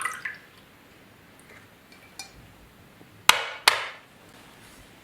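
Two sharp knocks about half a second apart, each followed by a short ringing, after a few light clinks at the start.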